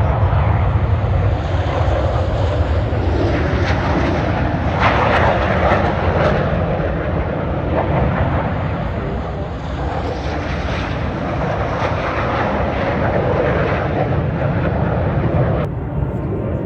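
Loud, steady airplane engine noise from an aircraft flying at an air show, a dense rumbling roar that turns abruptly duller near the end.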